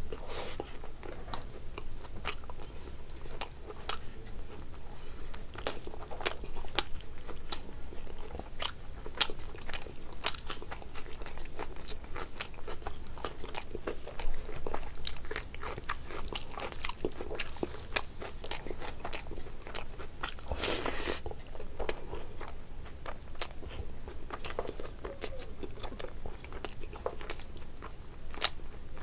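Close-miked mouth sounds of a person eating rice, curry and meat by hand: wet chewing and lip smacks with frequent sharp clicks and small crunches, and one longer, louder crunching sound about two-thirds of the way through.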